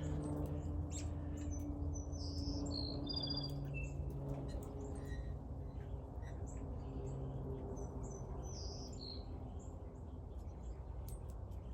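Scattered short, high bird chirps in two brief clusters, a few seconds in and again near two-thirds of the way through, over a low steady hum that fades out after about five seconds.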